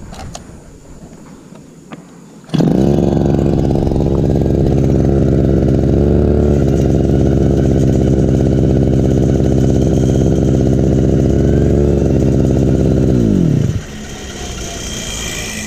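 Stihl FR3001 backpack brush cutter engine catching suddenly a few seconds in and running at a steady fast speed, then winding down and going much quieter near the end.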